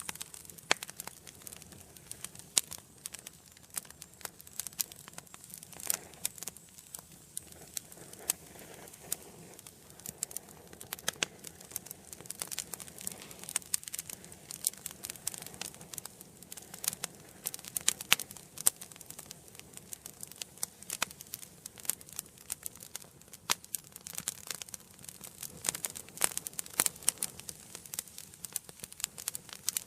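Wood fire burning in a fireplace, crackling steadily with many irregular sharp pops and snaps over a soft hiss.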